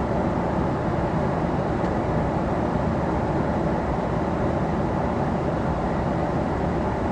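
Steady rushing noise of an airliner cabin in flight, even throughout and strongest in the low range.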